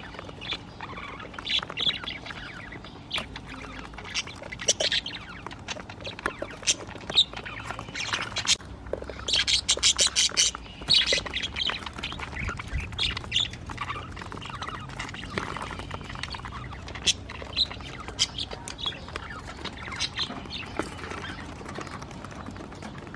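A group of budgerigars chirping and squawking, with a quick run of loud repeated squawks about nine to eleven seconds in.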